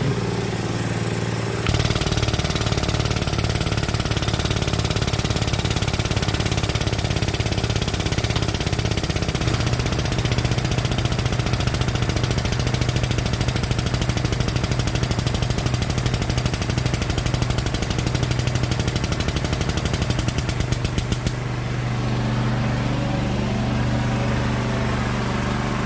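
Engine running hard under load, with a fast even pulse. It comes in louder suddenly about two seconds in and eases near the end.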